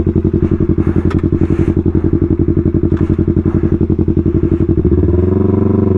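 Yamaha R3 parallel-twin engine through a full aftermarket exhaust system, running with a loud, rapid, even pulsing note. About five seconds in the note turns smoother and rises slightly as the revs come up.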